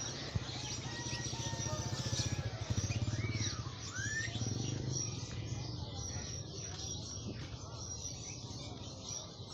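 Caged songbirds chirping and whistling over background music and a steady low hum.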